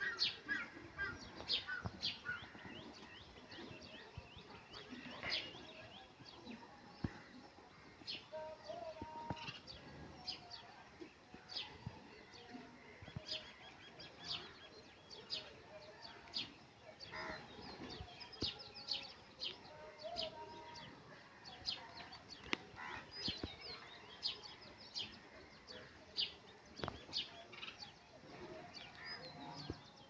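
Birds chirping: many short, high chirps scattered throughout, with a few brief lower calls now and then.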